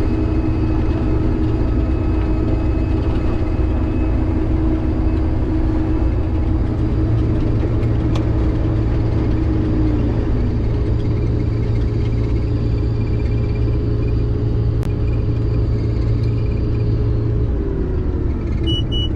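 Combine harvester running steadily while harvesting soybeans: a constant engine and machinery drone whose pitch sags slightly near the end. A few quick electronic beeps come right at the very end.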